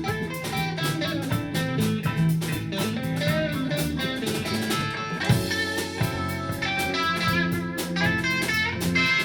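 Rock and blues band playing an instrumental passage, guitar to the fore over a low bass line and a steady beat.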